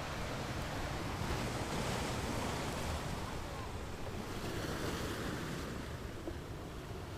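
Ocean surf: waves washing in as a continuous rush of noise, swelling a little after about a second and easing slightly toward the end.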